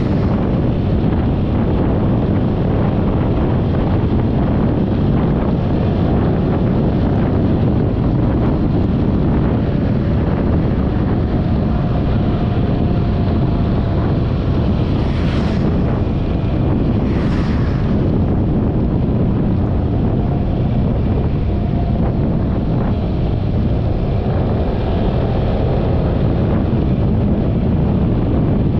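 Steady wind buffeting on the camera microphone of a moving Yamaha XMAX 300 scooter, heavy and low, with two brief hissing swells a little past halfway.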